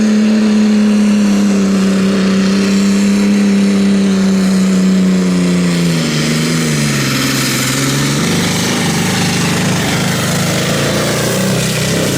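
Competition pulling vehicle's engine running hard at high revs. Its pitch sinks slowly over the first seven seconds or so, holds lower, then stops abruptly.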